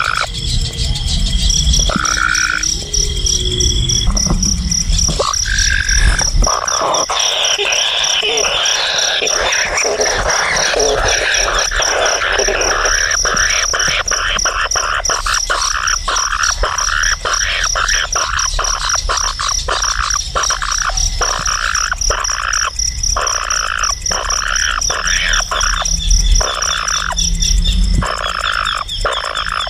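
Frogs croaking in a dense, rapid chorus, over a steady high-pitched insect trill. A low rumble runs under the first few seconds.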